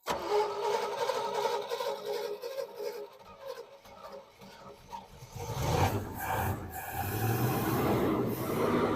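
Truck engine with a freshly rebuilt GM 2-barrel carburetor being cranked on the starter, then catching about five seconds in and running. This is the restart after the float was reset to stop fuel overflowing from the top of the bowl.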